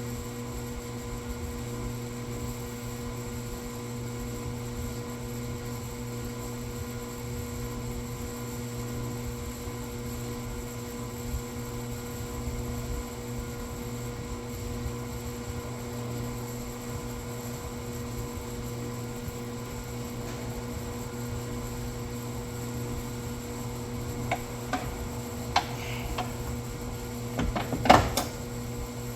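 Steady electrical hum. Near the end come a handful of clicks and knocks, the loudest a sharp clank about a second before the end.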